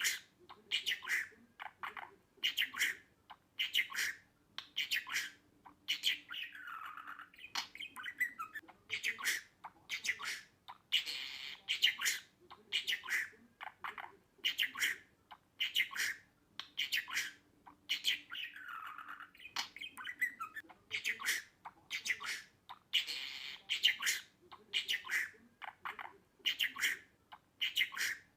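Budgerigar chirping in quick, short calls of about two a second, broken now and then by longer warbling calls.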